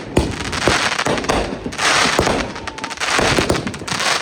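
Consumer fireworks going off: a rapid series of bangs with dense crackling, heaviest about two seconds in and again near the end.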